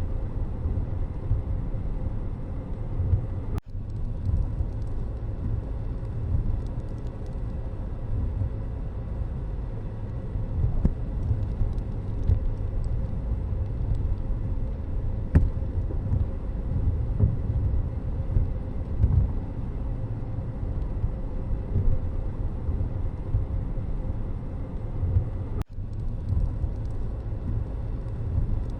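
Steady low rumble of a moving road vehicle and passing traffic, with road and wind noise. The sound drops out briefly twice, once a few seconds in and once near the end.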